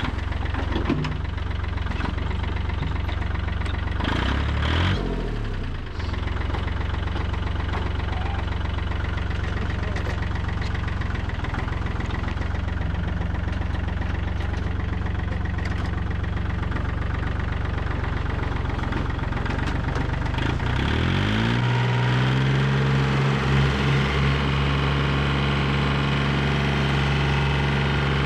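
Subaru BRAT's swapped-in engine idling just after starting. A brief rev about four seconds in, then about twenty-one seconds in the engine speed rises and settles at a higher, steady idle.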